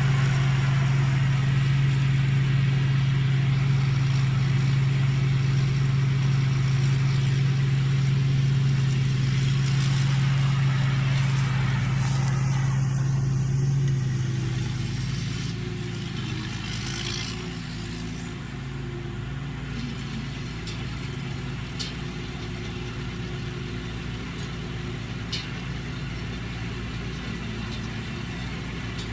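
Rice combine harvester's engine running steadily with a low hum and a faint high whine. About halfway through it drops to a quieter, steady run.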